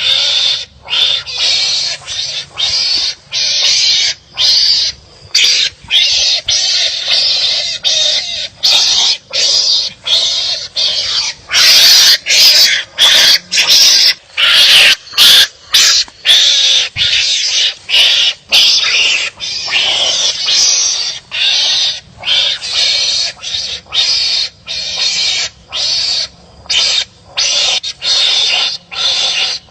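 Wild animals calling at each other in repeated harsh, rasping barks, about one a second, louder through the middle stretch.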